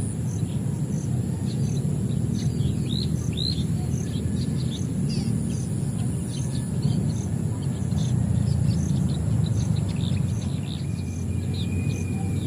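Several small birds chirping, with many quick, falling high chirps overlapping throughout. A steady low rumble lies beneath them, and a regular high tick sounds about twice a second.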